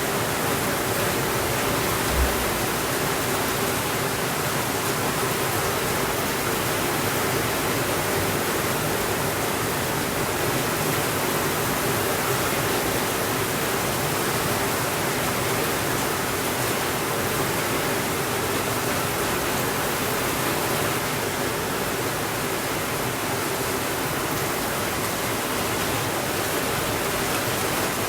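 Steady rainfall, an even hiss with no change in level, and a single brief low thump about two seconds in.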